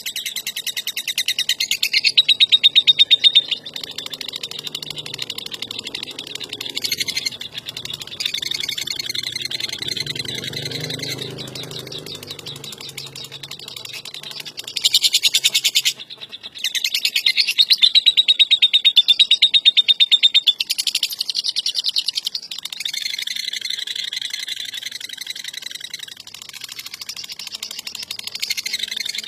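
Lovebird ngekek: a long, very fast chattering trill of rapidly repeated high notes. It swells louder in stretches and breaks off briefly about sixteen seconds in.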